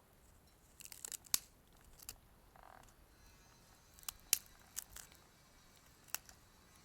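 Wood fire in a small wood-burning camp stove crackling, with a handful of sharp pops at irregular intervals.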